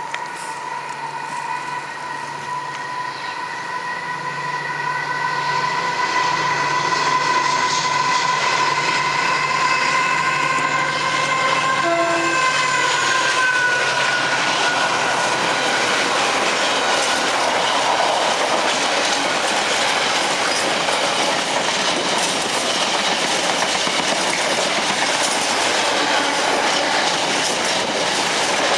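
A train passing close by on the rails. A steady whine of several tones dips slightly in pitch about thirteen seconds in, over a loud, even rumble and wheel clatter that builds over the first few seconds and then holds.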